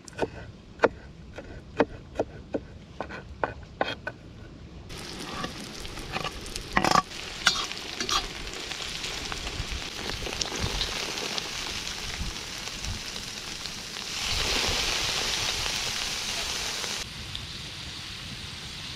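A run of sharp knocks, about two a second, then food sizzling as it fries while being stirred, louder for a few seconds near the end.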